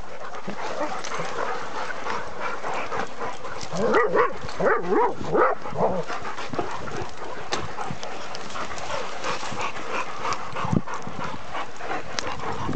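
A mixed pack of about ten dogs on the move, panting heavily the whole time. A cluster of short barks comes about four to five and a half seconds in.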